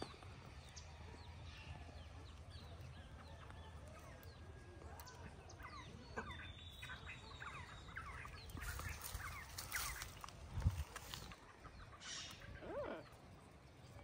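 Faint bird calls: scattered short chirps and chattering notes, busiest from about six to eleven seconds in, over a low steady rumble.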